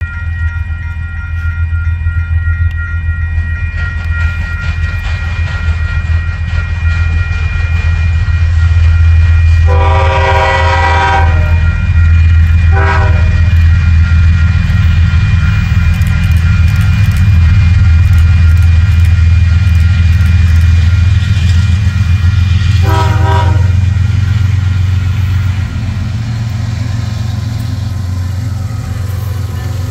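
Union Pacific coal train's diesel locomotives running by with a steady deep rumble, growing louder as they approach and easing off near the end as they pass. The locomotive horn sounds three times: a long blast about ten seconds in, a short one soon after, and another about 23 seconds in.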